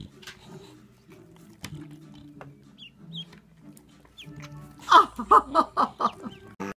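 Ducklings peeping softly in short high chirps over low background music. About five seconds in comes a loud run of six or seven quick rhythmic calls, about four a second, which then stops abruptly.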